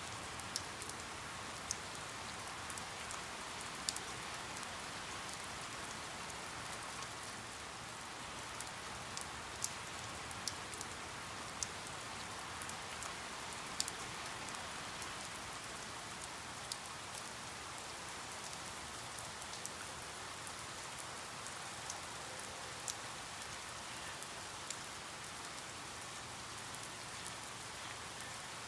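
Steady rain falling, an even hiss with scattered sharp drop clicks from individual raindrops striking a surface.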